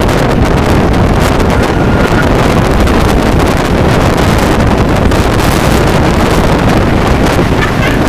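Strong wind blasting across the microphone: a loud, steady rush with heavy low rumble.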